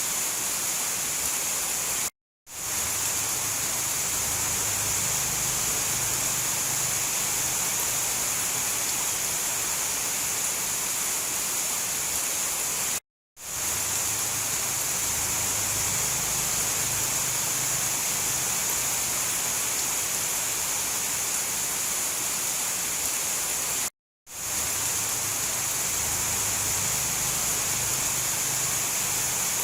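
Steady, dense rain noise, hissing evenly with no single drops standing out. The recording is looped: it cuts out to silence for a split second three times, about every 11 seconds, at the loop seams.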